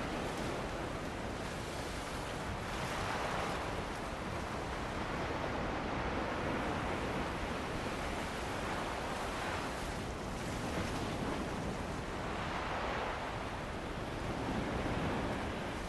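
Ocean waves breaking and washing onto a beach, with wind, a steady rush that swells every few seconds.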